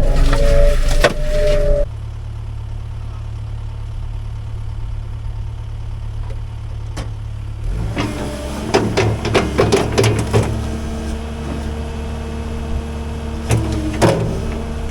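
Heavy land-clearing machine's engine running. It drops abruptly to a steady low hum about two seconds in; around eight seconds in the engine note comes back with a run of sharp cracks and knocks.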